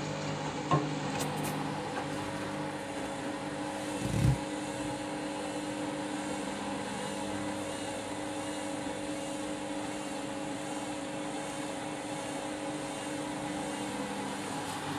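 Candy GrandO Vita Smart Touch washing machine running its pre-wash: a steady motor hum with a single low thud about four seconds in.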